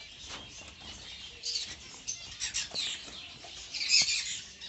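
A mixed flock of small caged birds chirping in short, high bursts that overlap, loudest about four seconds in.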